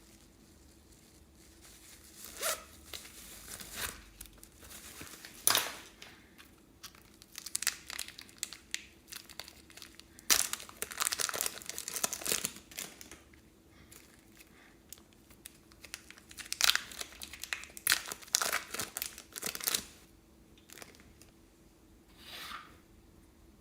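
Plastic crinkling and crackling as slime and piping bags are handled and squeezed, in irregular bursts with quiet gaps between them.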